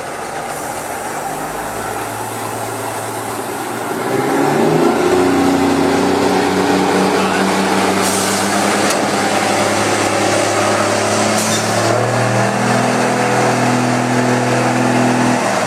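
Heavy truck engine running and working, growing louder about four seconds in, with its pitch shifting in steps. Two short hisses come near the middle.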